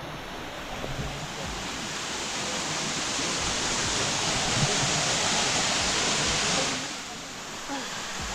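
Waterfall pouring into a pool: a steady rushing hiss of falling water that grows louder over the middle and drops back abruptly about seven seconds in.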